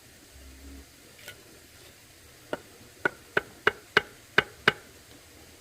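A quick series of seven sharp knocks, about three a second, starting about two and a half seconds in, with a single fainter knock before them.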